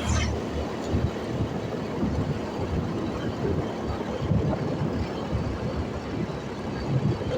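Motorcycle riding, its engine and road noise under wind buffeting the microphone in uneven low gusts.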